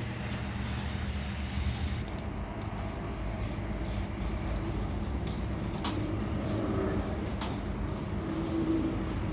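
A machine running with a steady low rumble, with a few sharp clicks on top.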